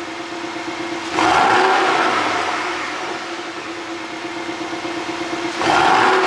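Porsche 718 Cayman's 2.0-litre turbocharged flat-four, ECU-tuned for exhaust pops, idling and then blipped twice: revs jump suddenly about a second in and again near the end. After the first blip they fall back slowly toward idle.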